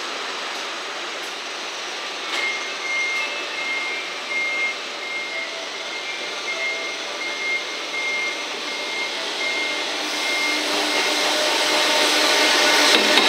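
EF210 electric locomotive hauling a container freight train, approaching with a steady running noise that grows louder over the last few seconds as it draws near. A high beep repeats steadily through the middle of the stretch.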